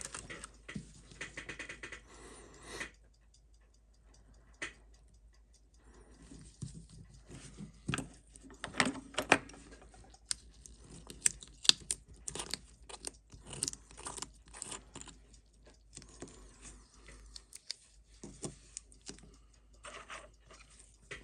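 Small metal clicks, taps and light scrapes of watchmaker's tools handling a vintage Seiko 6105 watch and its parts at the bench, irregular, with a cluster of louder clicks in the middle.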